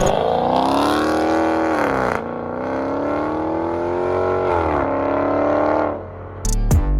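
Car engine accelerating hard: the revs climb, drop sharply at a gear change about two seconds in, climb again, then fall back near five seconds before the sound cuts off about six seconds in.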